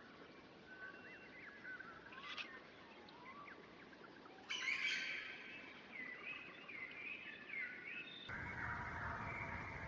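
Wild birds singing and calling: thin whistled and gliding notes and chirps. About halfway through it switches abruptly to louder chattering calls, and near the end to a denser, noisier chorus of birds.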